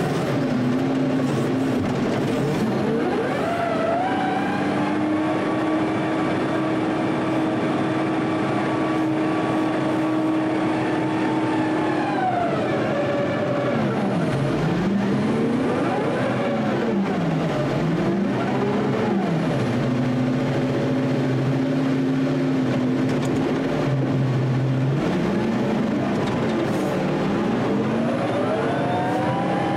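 Front-end loader engine working hard, holding steady for a few seconds at a time and then dropping and climbing back up in speed several times over.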